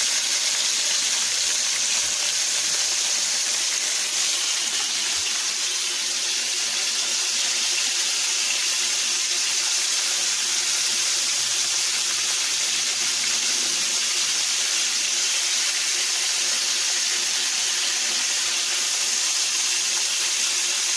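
Floured chicken liver frying in olive oil in a pan: a steady, even sizzle.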